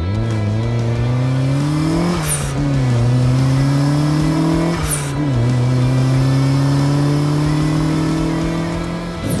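Car engine accelerating through the gears: it rises in pitch three times, dropping back at a gear change about two seconds in and again about five seconds in.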